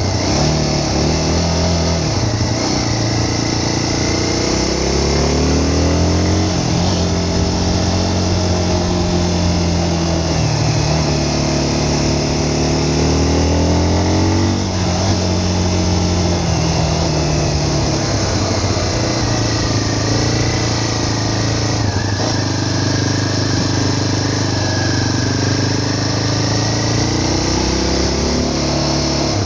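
A vehicle's engine running under way, its pitch rising and falling as it speeds up and slows. There is a sudden drop in pitch about halfway through, like a gear change, and it climbs again near the end.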